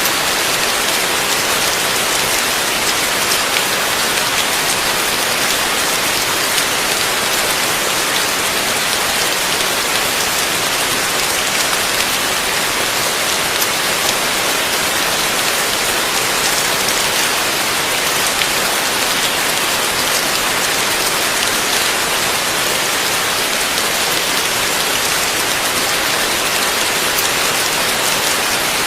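Heavy rain falling steadily, a dense even hiss of drops hitting surfaces, with no thunder.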